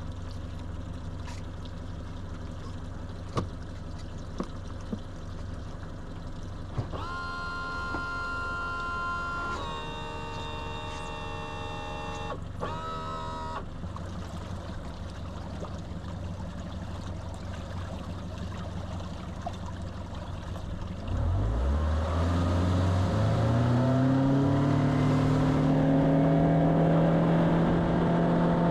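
Boat's outboard motor idling with a low steady hum, then throttled up about twenty seconds in, its pitch rising as the boat speeds up and gets underway.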